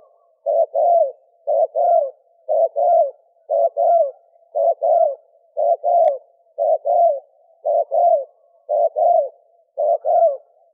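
Male spotted dove cooing: a steady series of short two-note coos, about one a second, the bird's rapid 'gù' calling.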